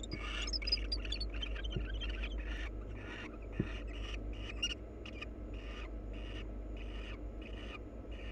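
Barn owls in a nest box give a run of rasping, hiss-like calls, about two a second, with a few high twittering notes in the first second. There is a faint knock or two and a steady low hum underneath.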